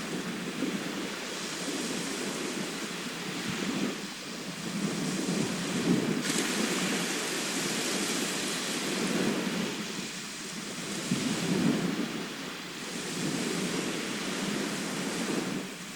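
Sea waves breaking and washing on a shore, a steady rush of surf that swells and eases every few seconds.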